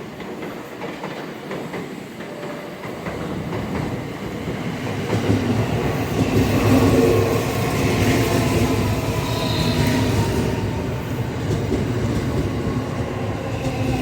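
315 series electric train running on rails, with wheels clacking over rail joints and a rumble that grows louder from about four seconds in. Its whine slowly falls in pitch through the second half.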